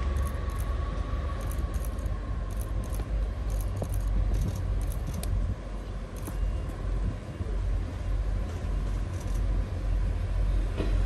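Diesel railcar running, a steady low rumble with light rattling throughout.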